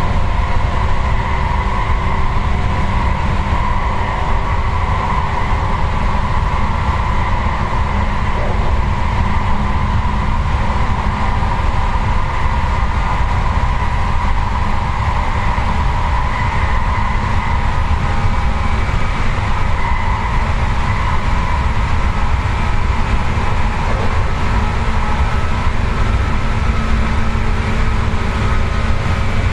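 Seibu 4000 series resistance-controlled electric train running at steady speed, heard from inside the passenger car: a continuous rumble of wheels on rails with a steady hum of running tones.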